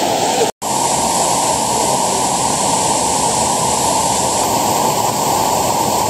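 Steady, loud rushing of a waterfall, with a brief cut to silence about half a second in.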